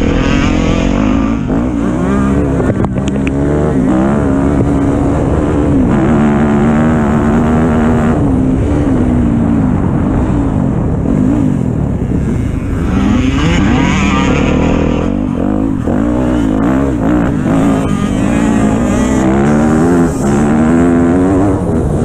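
Dirt bike engine being ridden hard, its pitch climbing and dropping again and again with the throttle and gear changes.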